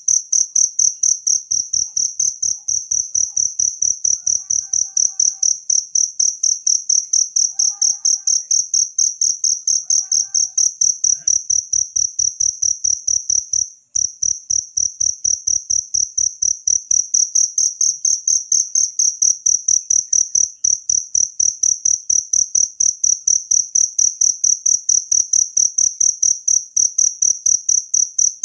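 Cricket chirping in a steady, even rhythm of about three to four high-pitched pulses a second, with one brief break about halfway through.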